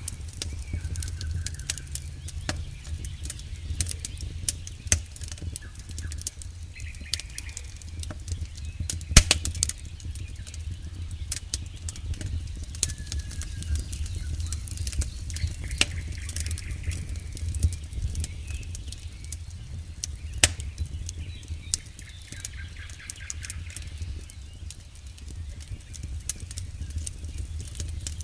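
Campfire burning, with irregular crackles and sharp pops of burning wood over a steady low rumble; the loudest pops come about nine seconds in and again about twenty seconds in. A few faint short chirps sound now and then in the background.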